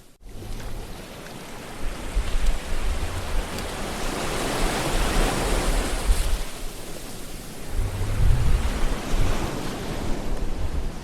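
Ocean surf: waves washing in and out as a broad rushing sound that swells and eases, with gusty low rumbles. There is a brief dropout right at the start.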